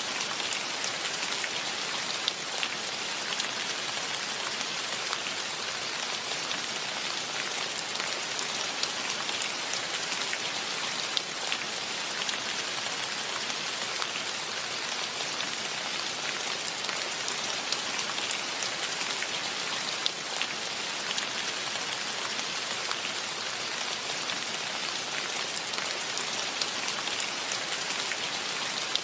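Steady rainfall: an even hiss with individual raindrops ticking through it and a few louder drops now and then.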